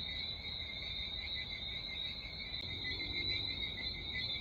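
Steady insect chorus: a continuous high-pitched trill that does not break off.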